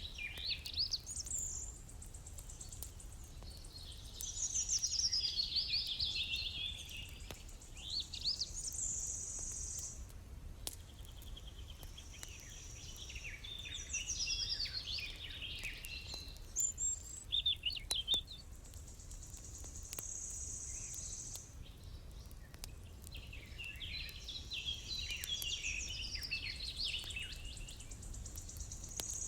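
Songbirds singing in bursts of quick, sliding chirps and warbles every few seconds, with some long, high, steady trilled notes between phrases.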